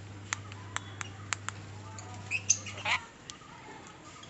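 Pet birds calling: a run of five short, sharp chirps, then a louder, harsher squawk about two and a half seconds in.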